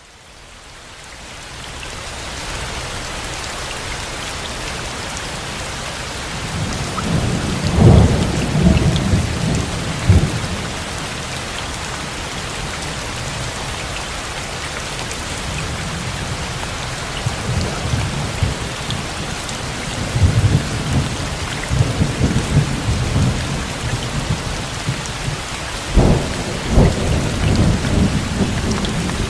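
Steady rain falling, fading in over the first two seconds, with rumbles of thunder rolling in about a third of the way through and again twice near the end.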